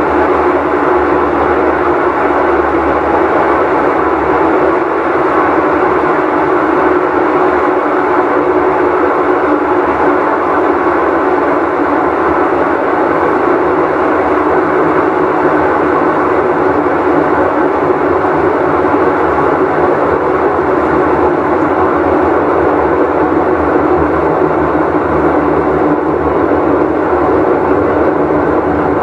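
Whirlpool Cabrio top-load washing machine spinning at speed, a loud, steady, train-like noise with an even hum running through it: the sound of a failing tub bearing.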